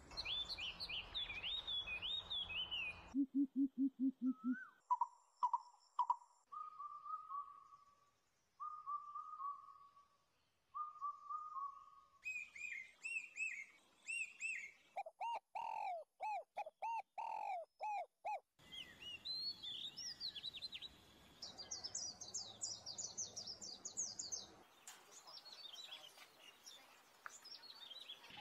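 Birds chirping and calling in a run of different patterns: rapid high chirps, a low buzzy trill, repeated mid whistled notes, then falling notes. The sections cut abruptly from one to the next every few seconds, each with its own background noise.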